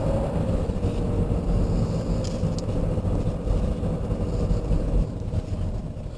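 Car engine and road noise heard from inside a moving taxi's cabin, a steady low rumble that quietens near the end.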